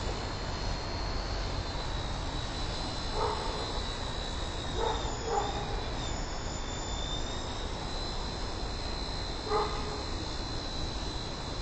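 High, steady whine of a small XK K100 RC helicopter's motor and rotors, wavering briefly in pitch midway, over wind rumbling on the microphone. A dog barks four times.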